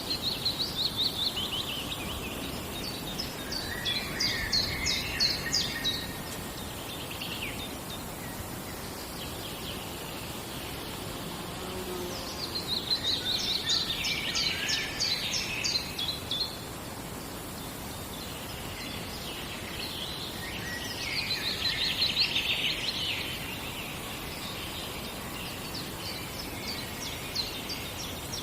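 A forest songbird singing in repeated high-pitched phrases of a few seconds each, about every eight seconds, over a steady background hiss of forest ambience.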